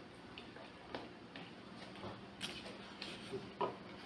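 Faint, irregular mouth clicks of chewing and lip-smacking from people eating by hand.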